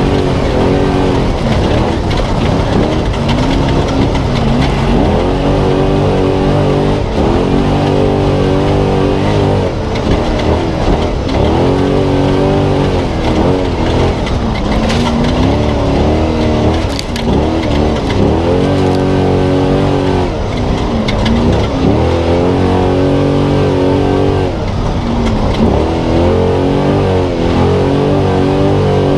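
Spec Trophy Truck's V8 engine heard on board, revving up and falling back every few seconds under hard throttle.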